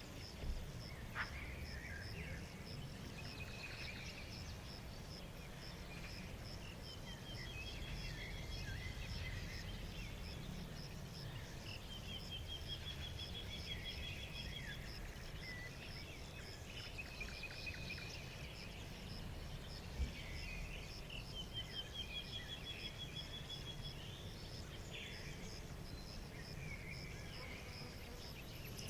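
Several songbirds singing in short phrases and quick trills, some trills rising, over a steady high insect chirp that pulses several times a second. A low ambient rumble runs underneath.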